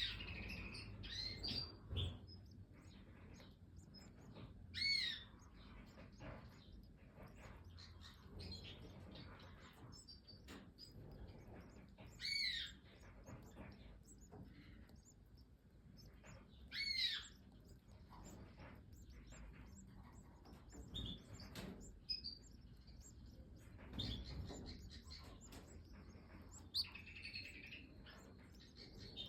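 European goldfinches chirping and calling, with a few louder curved call notes standing out about every five to seven seconds over softer chirps.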